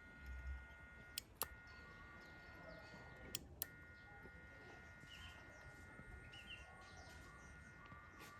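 Near silence with a faint steady high whine, four sharp clicks, two close pairs in the first four seconds, and faint bird chirps about five and six and a half seconds in.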